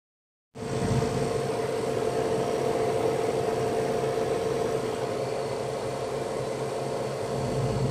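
Freezer refrigeration equipment running with a steady mechanical hum and a constant tone, cutting in after a brief gap about half a second in. The freezer is cooling normally, with its condenser coil clean.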